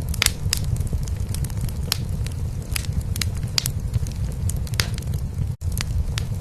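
Wood fire crackling in a fireplace, with sharp irregular pops, over a steady low cat purr. The sound cuts out for an instant about five and a half seconds in.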